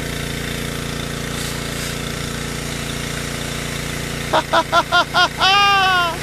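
Gas-engine pressure washer running steadily. Near the end a high voice breaks in with about six short quick calls, then one longer call that falls in pitch.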